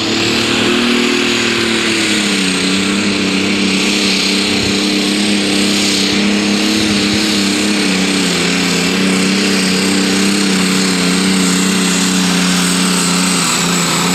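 Pro Stock pulling tractor's diesel engine running hard at high, steady revs under full load during a pull. The engine note dips slightly about two seconds in and then holds, with a high steady whistle above it.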